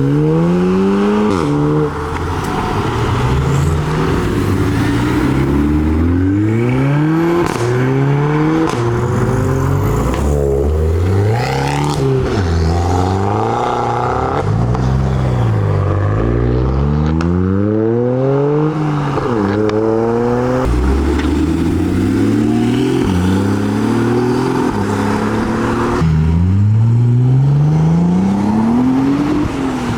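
Sports car engines accelerating hard one after another, each climbing in pitch for a second or two and dropping sharply at every gear change, again and again.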